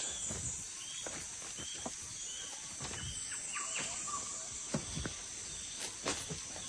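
Forest ambience: a steady high insect drone with short bird chirps and a few soft clicks.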